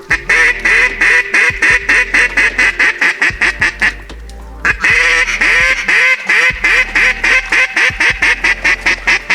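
Hand-blown duck call worked close to the microphone: a fast string of quacking notes, about six a second, in two long runs with a short break about four seconds in, calling to circling ducks.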